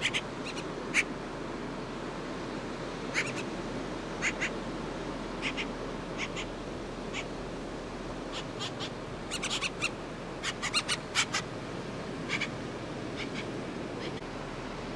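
Short, sharp bird calls, scattered and then in a quick flurry a little past the middle, over the steady wash of surf.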